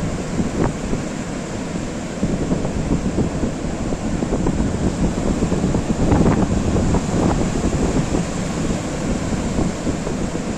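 Sea waves washing and breaking, with wind rumbling on the microphone; a louder surge of surf about six seconds in.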